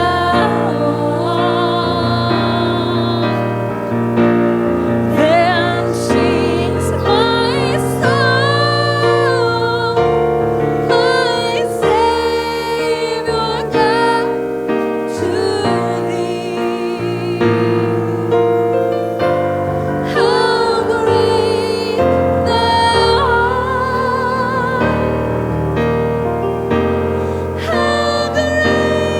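Gospel-style music: a voice singing a slow melody with vibrato over sustained piano and keyboard chords.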